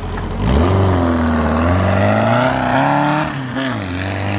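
The Baja Bug's VW engine revved up from idle about half a second in, its pitch rising and wavering, dipping briefly near the end and then holding at a higher speed. Fresh spark plugs have not cured the problem that keeps the car from working.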